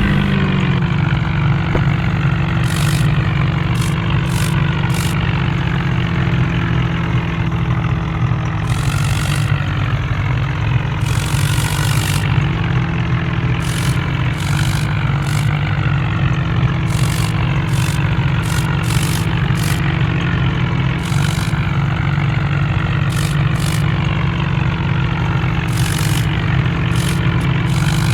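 Tractor engine running steadily after its pitch drops slightly in the first second, with scattered sharp clicks or rattles over the hum.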